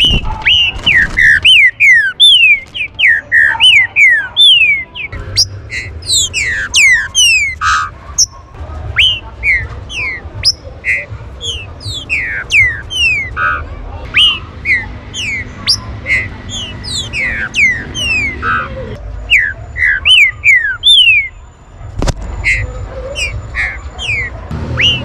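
Green-winged saltators (trinca-ferro) calling excitedly: a dense, rapid stream of short, high whistles, each sliding steeply downward, many overlapping.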